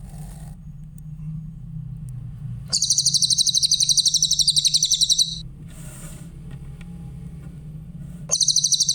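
Cililin bird singing: a fast, high trill of rapidly repeated notes, about ten a second, lasting about two and a half seconds. It starts again near the end, over a steady low hum.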